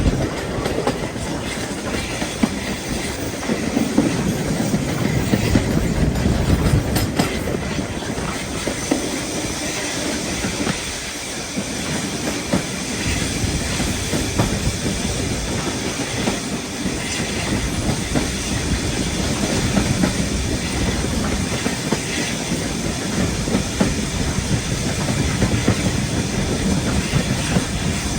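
A heritage railway passenger train running along the track, with a steady, continuous running noise.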